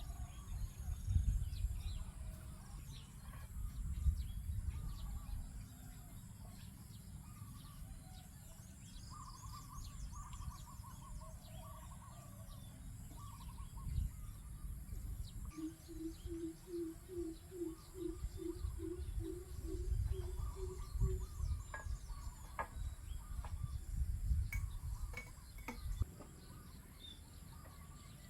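Several wild birds calling: scattered chirps and short trills, and about halfway through a low hooting call repeated about a dozen times, roughly two notes a second. Under the birds is a low rumble that comes and goes in gusts.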